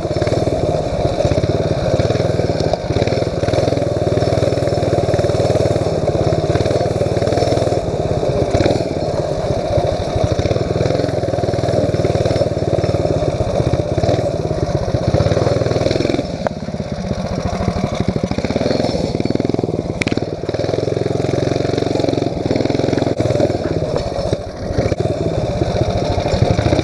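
Mini bike's small single-cylinder engine running steadily, with a brief easing off of the throttle about two-thirds through before it picks back up.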